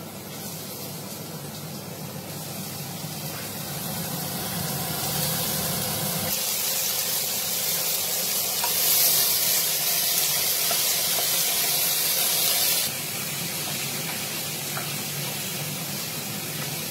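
Chopped beetroot frying in hot oil in a pan: a steady sizzle that grows louder, is loudest around the middle, and drops suddenly a few seconds before the end.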